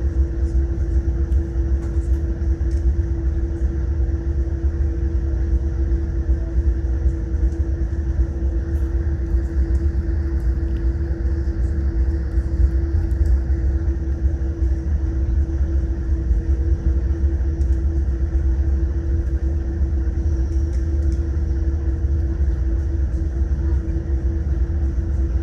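Boeing 787 Dreamliner cabin noise while taxiing: a steady low rumble with a constant hum, the engines held at low power with no spool-up.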